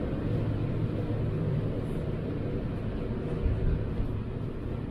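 Passenger train moving along the track, heard from inside the carriage: a steady low rumble of the wheels and running gear, with a couple of heavier thumps about three and a half seconds in.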